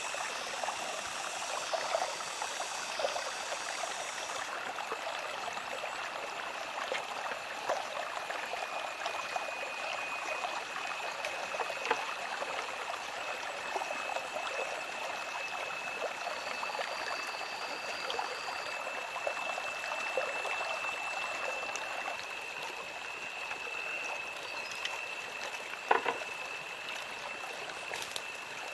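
Water running and trickling, like a small stream, as a steady rushing hiss. A thin steady high tone joins it about a third of the way in, and a single sharp knock comes near the end.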